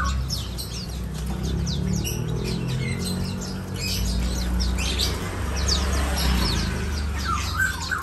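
Many caged songbirds chirping together, a dense overlapping mix of short, quick falling calls, over a steady low hum.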